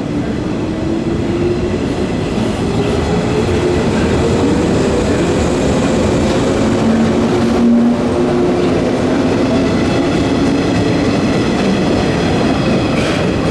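JR 115-series electric multiple unit pulling away, its resistor-controlled DC traction motors whining with a pitch that rises steadily as the train gathers speed. Underneath is the rumble and clatter of wheels over the rail joints, with a brief dip about three quarters of the way through.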